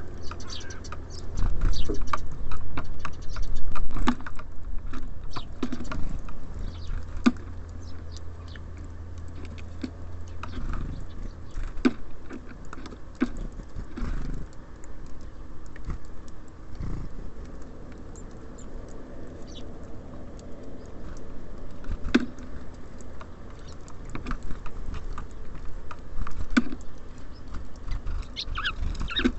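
Small birds pecking and hopping at a bird feeder: irregular sharp taps and scratchy clicks, over a steady low rumble that eases after about eleven seconds.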